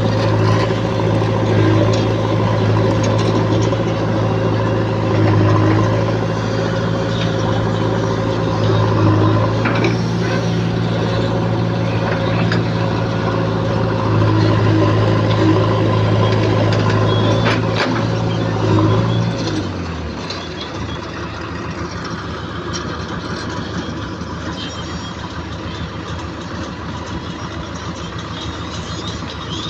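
Heavy diesel engine running steadily. About two-thirds of the way through its note drops away, leaving a quieter, even rumble.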